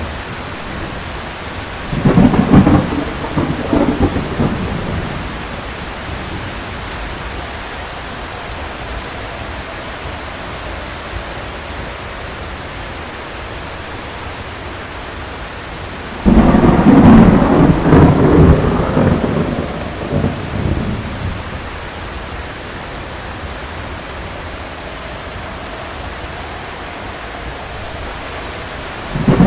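Heavy rain falling steadily, with two loud rolls of thunder, one about two seconds in and a longer one about sixteen seconds in, and another starting at the very end.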